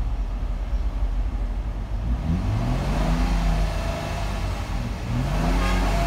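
Nissan VQ25DE 2.5-litre V6 engine in Park, idling near 1,000 rpm and then revved: its note rises about two seconds in to around 3,000 rpm, and rises again near the end to hold at about 3,700 rpm.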